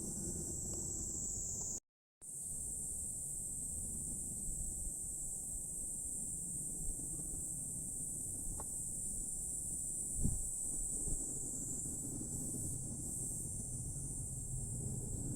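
Steady high-pitched insect chorus over a low outdoor rumble, cut by a short dropout to silence about two seconds in, with a faint knock a little past ten seconds.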